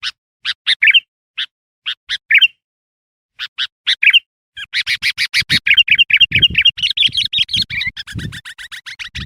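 Sooty-headed bulbul (kutilang) calling: spaced short, bright chirps for about four seconds, then a fast, dense run of chattering notes, with low thumps underneath.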